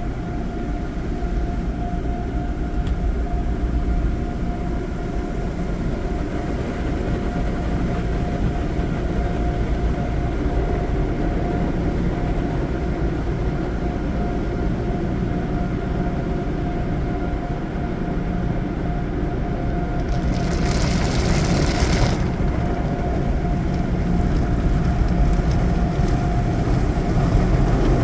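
Express car wash tunnel equipment, by the looks of it a PECO tunnel, running around a car going through it, heard from inside the car: a steady loud rumble with a constant motor whine. About twenty seconds in a burst of spraying hiss comes in for a second or two.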